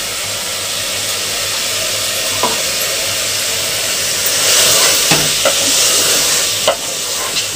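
Mutton, tomato and spice masala sizzling in oil in an aluminium pressure cooker. Ginger-garlic paste is spooned in and stirred with a wooden spatula as the masala is fried down. The sizzle swells for a couple of seconds past the middle, and the spatula knocks against the pot a few times.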